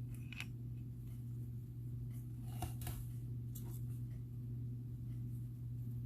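Faint, scattered small clicks and rustles of gemstone and glass beads and stretchy cord being handled while threading a bracelet, over a steady low hum.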